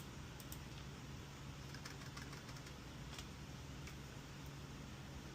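Computer keyboard being typed on: a few faint, scattered keystroke clicks over a steady low hum.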